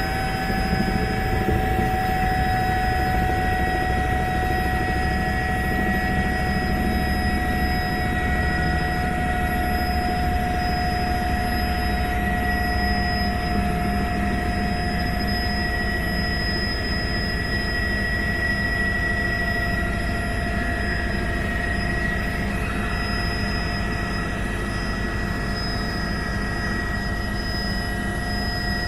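Helicopter in flight: a steady engine and rotor drone with a high whine that sinks slightly in pitch over the stretch.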